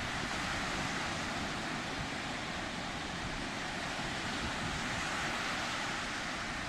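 Sea surf washing steadily onto the shore, a continuous hiss of breaking water with low rumble underneath and wind on the microphone.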